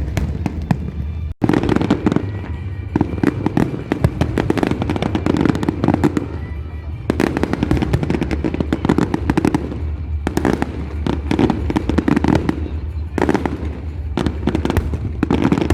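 Aerial fireworks bursting and crackling in rapid, overlapping volleys, with music playing underneath. The sound cuts out for an instant about a second in.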